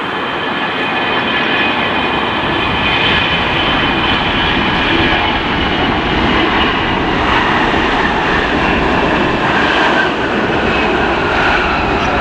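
Heavy jet airliner's engines running loud and steady: a broad rush with a high, multi-tone fan whine on top.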